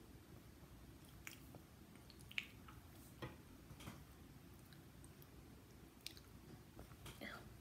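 Faint chewing of a mouthful of cinnamon-apple oatmeal: soft wet mouth clicks and squishes scattered through, with one sharper click about two and a half seconds in.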